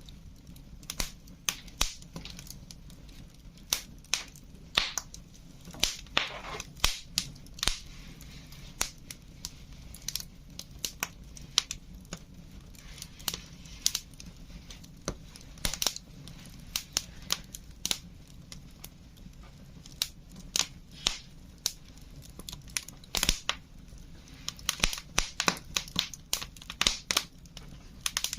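Wood fire crackling: irregular sharp pops and snaps, sometimes several in quick succession, with a busier run of them near the end, over a low steady hum.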